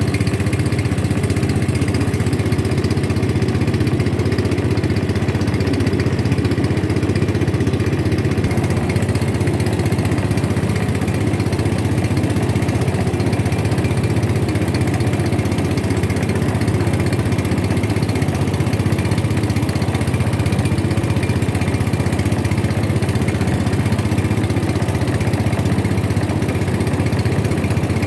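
Boat engine running steadily at an even speed, a constant loud drone with no change in pitch.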